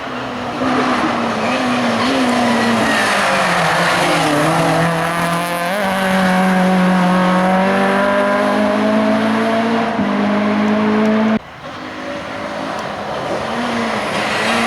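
Race car engine at full throttle on a hill climb, its pitch dipping and climbing again as the driver works throttle and gears. The sound cuts off abruptly a little past eleven seconds in, and an engine sound then builds up again.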